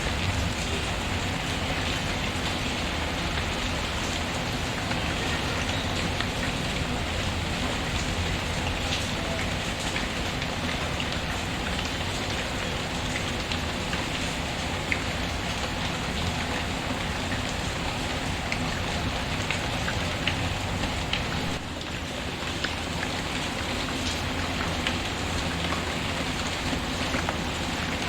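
Steady heavy rain falling on a surface, mixed with the crackle of a wood fire, with scattered light pops and ticks. The sound dips briefly about three-quarters of the way through.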